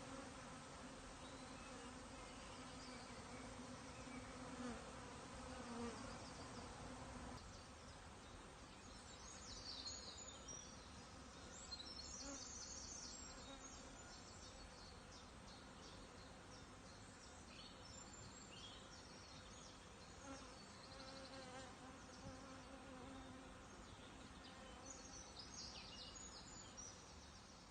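Faint, steady buzzing of a honeybee swarm as the bees crowd into a nuc box to join their queen, with a few high chirps near the middle and again near the end.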